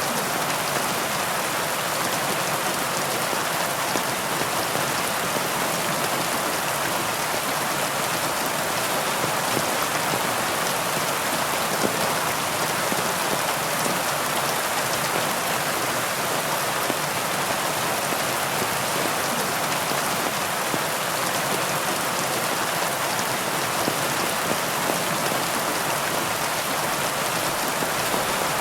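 Heavy rain falling steadily, an even hiss of many drops on leaves and surfaces with small scattered drop ticks and no change in strength.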